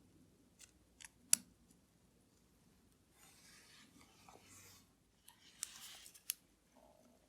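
Small hand tools at work on a watch at the bench: a few sharp little clicks, the loudest just over a second in, then a scratchy rub for about two seconds, and another brief rub with two more clicks near the end.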